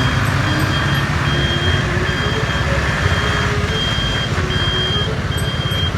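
Toy tow truck's electronic sound effect: a steady engine rumble with a short high reversing beep repeating a little over once a second.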